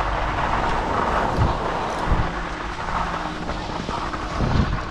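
Skis hissing and scraping over packed snow with wind rushing on the microphone while skiing downhill, over a steady low mechanical hum.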